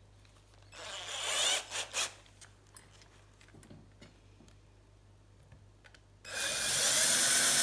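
Small electric drill starting about six seconds in and running steadily, fitted with a broken 3.5 mm bit to drill a lightening hole in a quick-release skewer. Earlier, about a second in, a short rasping rub.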